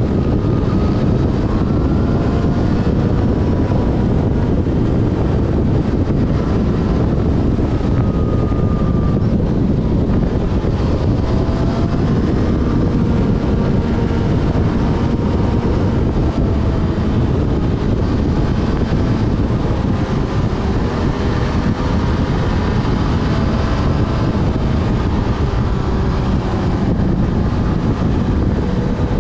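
Yamaha FZ6 Fazer's 600 cc inline-four running under way, its pitch rising and falling gently with the throttle, beneath heavy wind rumble on the microphone.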